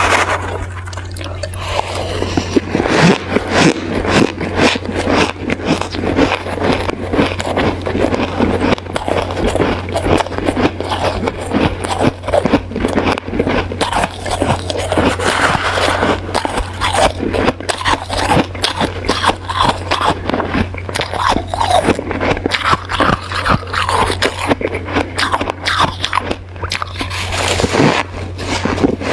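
Hard ice being bitten and chewed close to the microphone: dense, irregular crunching and crackling, over a steady low hum.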